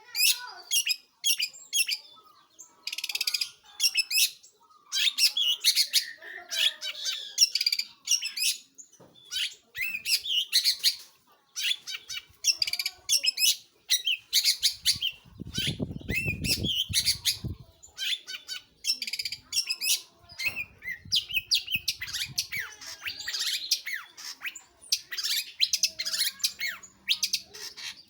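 Long-tailed shrike (pentet/cendet) singing actively: a rapid, continuous chatter of short, high, varied notes. A brief low rumble sounds about halfway through.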